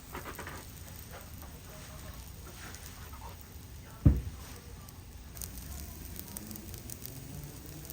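Open fire crackling steadily, with one loud dull thump about four seconds in.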